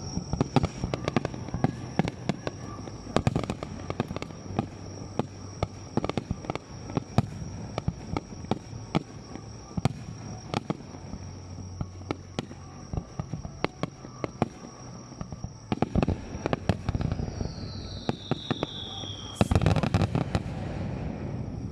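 Fireworks display: a rapid string of shell bursts and crackling reports. Near the end a falling whistle leads into a loud, dense burst of bangs and crackle.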